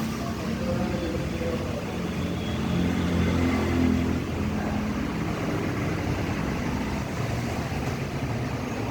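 Kawasaki motorcycle engine running, its pitch rising briefly about three seconds in and then settling back to a steady note.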